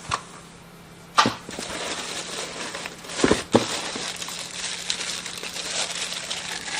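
Packaging crinkling steadily as accessories are unwrapped and lifted out of the box, with a few sharp knocks of parts being handled about a second in and around three and a half seconds in.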